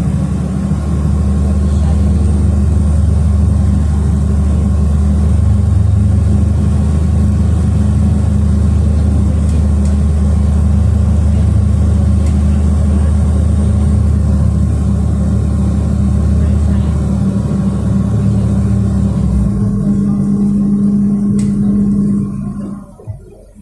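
City bus engine running while under way, heard from inside the passenger cabin as a steady low drone. Its pitch shifts near the end, and about 22 seconds in the sound drops away abruptly to a much quieter background.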